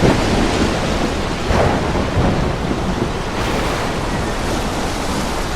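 Thunderstorm: steady heavy rain and wind with thunder rumbling, swelling at the start and again about a second and a half in.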